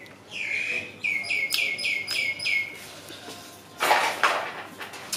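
A bird calls a quick run of about six short notes, each falling in pitch, over about two seconds. Then comes a loud crunch of a bite into crispy fried chicken coating, about four seconds in.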